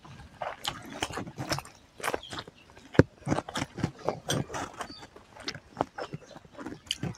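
Wet chewing and lip smacking of a mouthful of rice and egg curry: a run of irregular soft smacks and clicks, the sharpest about three seconds in.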